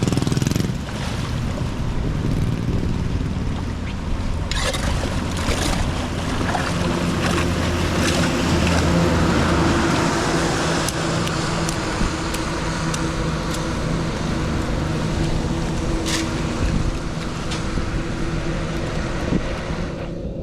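Steady rushing water noise with a low engine hum under it and a few sharp clicks.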